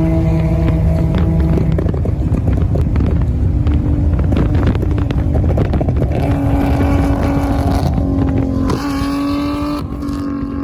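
A car engine runs loudly with a steady note that shifts in pitch. About three-quarters of the way through, the sound changes abruptly to another engine note.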